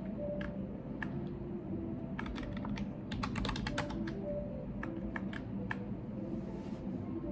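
Computer keyboard typing: keystroke clicks in irregular runs, with a fast burst about three seconds in, over a steady low room hum.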